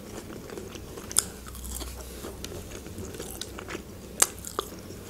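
Close-up eating of a breaded chicken nugget: wet chewing with a few sharp crunches of the coating.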